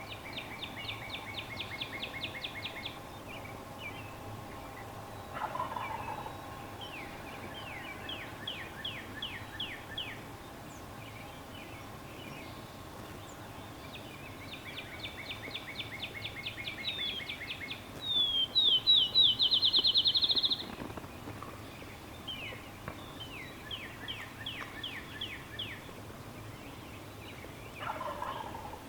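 Wild turkey gobbling in the distance twice, once early and once near the end, among repeated high, rapid songbird trills. The loudest sound is a songbird trill about two-thirds of the way in.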